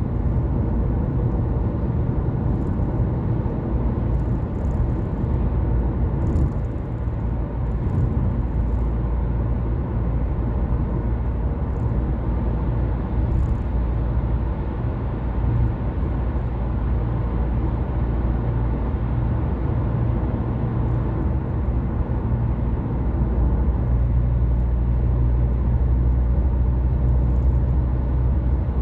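Car on the move: a steady low engine hum with tyre and road rumble. The engine note grows a little louder about two-thirds of the way through.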